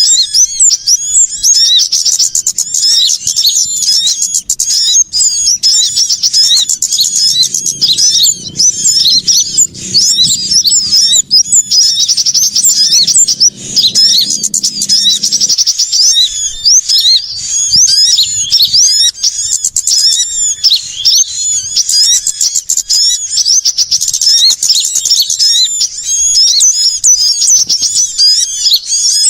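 Dense, unbroken chorus of small songbirds, such as sunbirds, chirping and trilling rapidly and excitedly over one another: an agitated "ribut" small-bird lure call used to draw small birds in.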